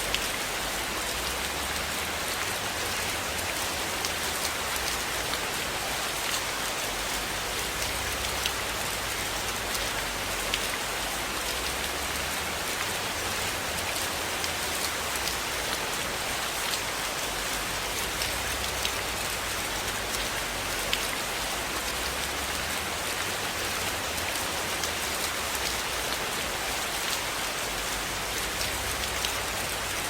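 Steady rain falling on a cabin, a dense even hiss with scattered sharp ticks of individual drops.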